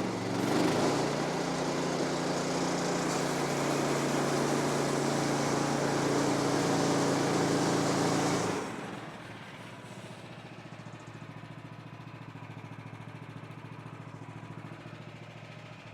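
Sawmill's gas engine running, loud and fast at first, then settling to a much quieter idle about eight and a half seconds in as it is left to warm up.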